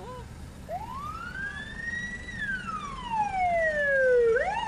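Emergency vehicle siren wailing: one slow rise and fall in pitch over about four seconds, then a quicker swoop up and back down near the end.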